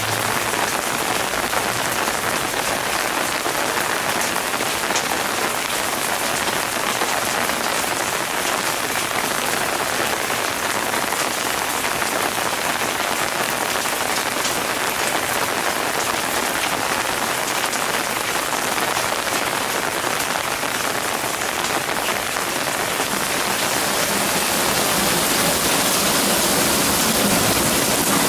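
Steady rain falling, a dense patter of drops that grows a little louder near the end.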